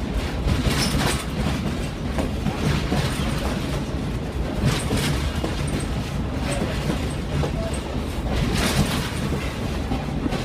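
Passenger train rolling along the track, heard from on board: a steady low rumble of wheels on rail, with a few louder rattling clacks now and then.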